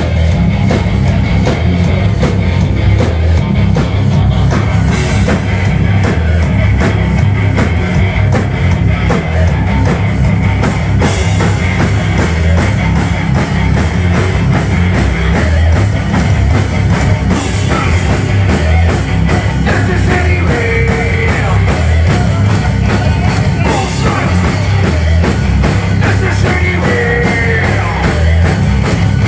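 Metal band playing live: distorted electric guitars, bass and drums, loud and bass-heavy without a break.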